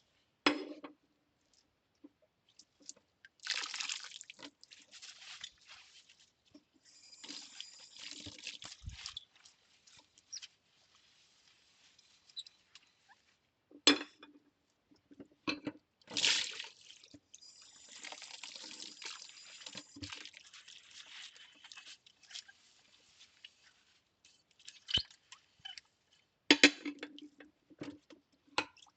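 Ceramic plates being washed by hand in a sink: stretches of running and splashing water and soapy scrubbing, with a few sharp clinks of ceramic against ceramic, the loudest a little under halfway through and near the end.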